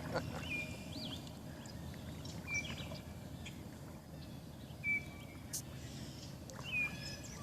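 A songbird calling over and over, about every two seconds: each call is a short note that slides down and then holds steady. The calls sit over a steady low background hum.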